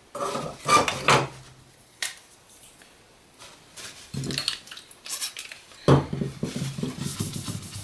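Light metallic clinks and knocks of an aluminum sheet and hand tools being handled and set down on a workbench, with a denser run of clattering near the end.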